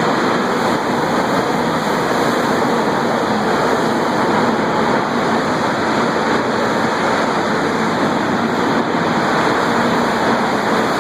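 Steady, loud roaring noise of an electric arc furnace melt shop, with no distinct impacts or changes.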